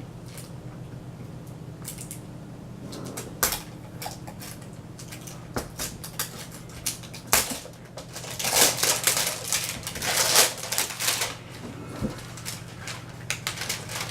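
Plastic toy packaging being peeled and crinkled by hand, with irregular crackles and clicks that grow denser and louder for a few seconds past the middle. A steady low hum lies underneath.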